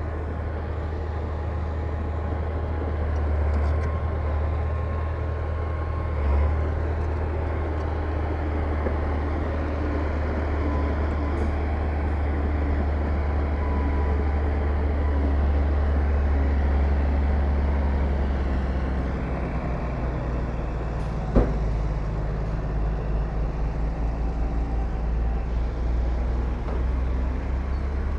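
Heavy diesel earthmoving machinery running, a steady low rumble, with one sharp clank about three quarters of the way through.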